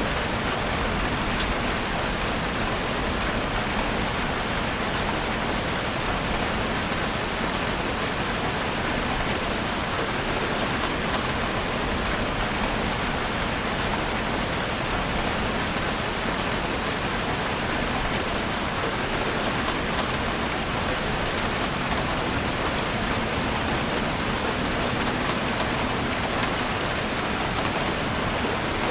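Heavy rain drumming steadily on a roof, an even hiss with fine scattered drop ticks.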